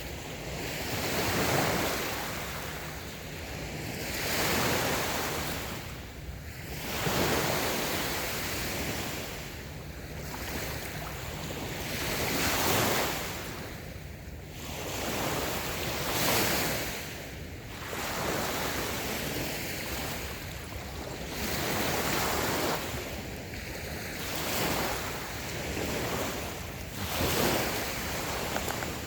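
Small waves breaking and washing up a sandy beach, each one swelling and fading every two to three seconds, with some wind noise.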